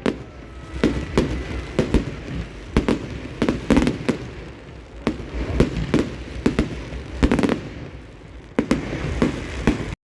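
Fireworks display: a rapid, irregular series of sharp bangs from firework bursts, one or two a second, cutting off abruptly near the end.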